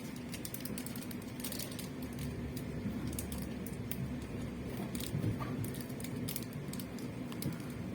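Inside an electric commuter train carriage: a steady low rumble and hum, with light clicks and rattles scattered throughout.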